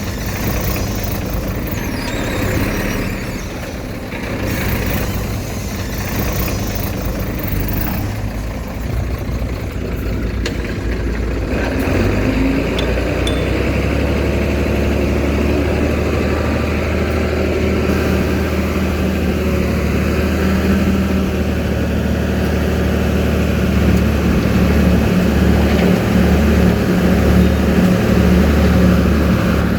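Heavy diesel earthmoving machinery running. About twelve seconds in, the engine note becomes steadier and louder, with a strong low hum, and it rises and falls a little near the end.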